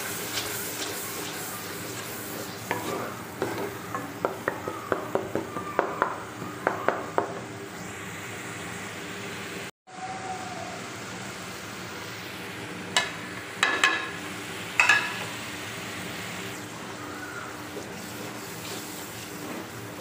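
Chopped tomato, onion and green chilli sizzling in oil in an aluminium pot, stirred with a wooden spoon that scrapes and knocks against the pot in a quick run of strokes. The sound drops out for an instant near the middle, and a few louder sharp knocks follow.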